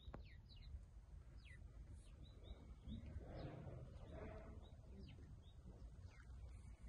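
Faint small-bird chirps: short high notes, several sliding downward, repeated every half second or so, over a low outdoor rumble.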